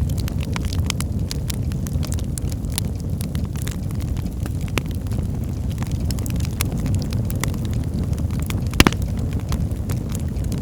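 Birchwood fire burning in a hearth: a steady low rumble of flames under frequent sharp crackles, with one louder pop about three-quarters of the way through.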